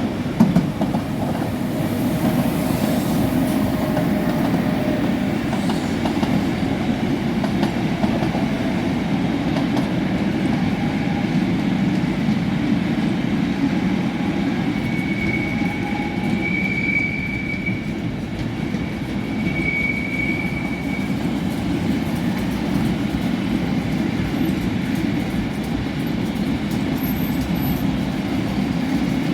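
Train rolling along the rails with a steady rumble, with a faint, thin high wheel squeal coming and going around the middle.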